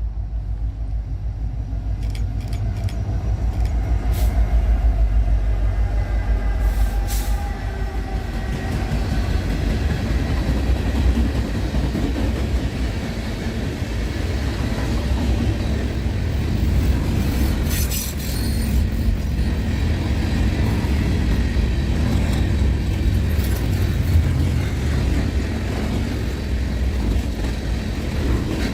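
Train passing close by, a steady heavy rumble of engine and wheels on rail that builds over the first few seconds, with sharp clicks and clanks here and there.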